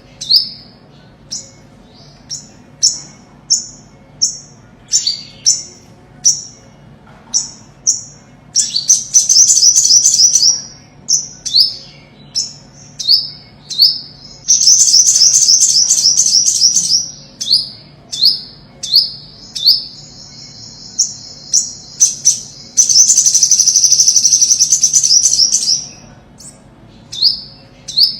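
Olive-backed sunbird singing: a run of short, high, downslurred notes about one or two a second, broken three times by loud, fast trills lasting two to three seconds each.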